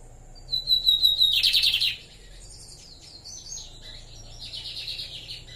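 Lined seedeater (bigodinho) singing: a short run of clear repeated whistled notes that runs into a loud, rapid buzzy trill about a second in, followed by quieter, varied twittering notes.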